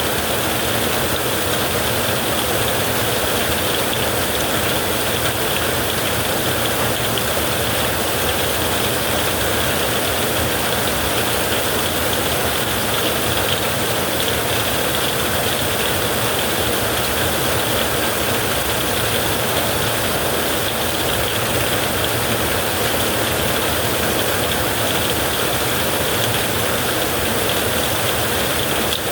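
Heavy rain falling steadily, an even hiss that holds the same level throughout, with no thunderclap.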